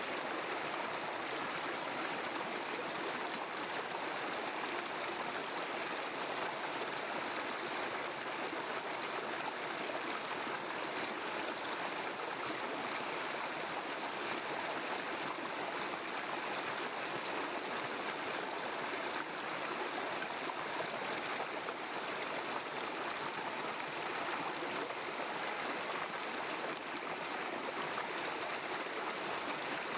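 River stream flowing: a steady, even rush of water with no pauses or single events.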